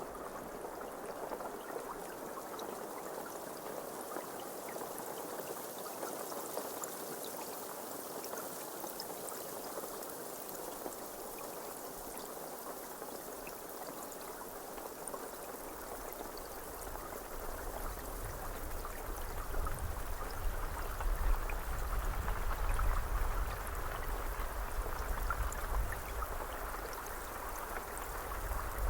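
Steady rainfall, an even hiss of rain with many small scattered drop ticks. A low rumble swells in beneath it about two-thirds of the way through.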